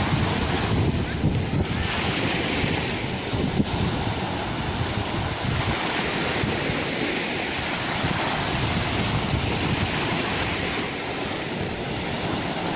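Sea waves washing and breaking on a shore as a continuous rush that swells and eases, with wind rumbling on the microphone.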